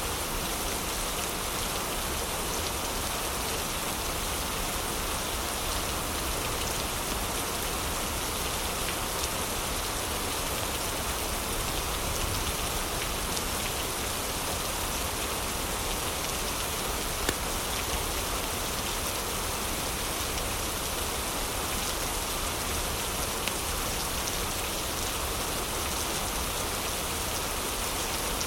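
Heavy rain falling steadily, a dense even hiss, with a few sharp ticks standing out briefly.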